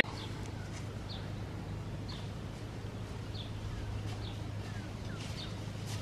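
Faint, scattered short bird chirps over a steady low hum.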